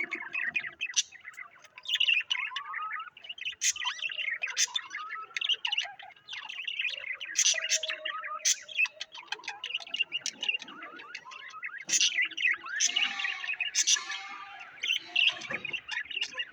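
Small pet birds chirping and warbling continuously, many short calls and sharp clicks overlapping with no pause.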